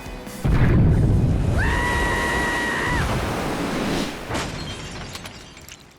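Cartoon sound effect of a large machine exploding: a sudden loud boom about half a second in that rumbles and fades away over several seconds. A held high-pitched tone sounds over the rumble for about a second in the middle.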